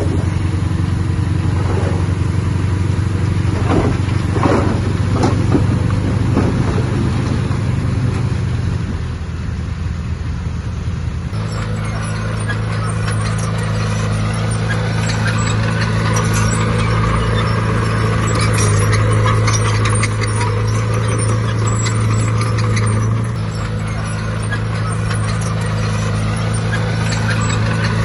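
Diesel engine of heavy earthmoving machinery running steadily under load, its note shifting about a third of the way in. Brief squeals come a few seconds in, and rattling metallic clinks follow through the second half.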